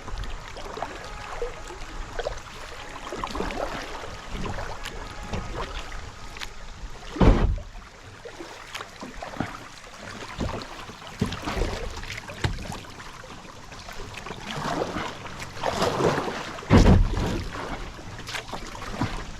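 Kayak moving down a flowing creek: paddle strokes splashing and water rushing around the hull. Two heavy thumps come through, one about seven seconds in and another near the end.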